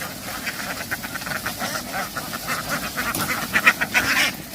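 A large flock of domestic ducks quacking together, many overlapping short calls making a constant din, growing louder for a moment about three and a half seconds in.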